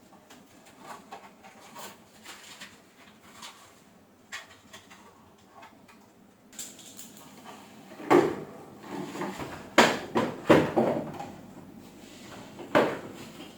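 Scattered knocks and clatter of objects being handled, faint at first, then several sharper, louder knocks in the second half.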